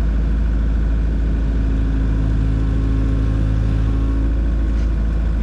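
Kubota KX057-4 mini excavator's diesel engine running steadily with a deep, even rumble, its tone a little stronger for a moment around the middle.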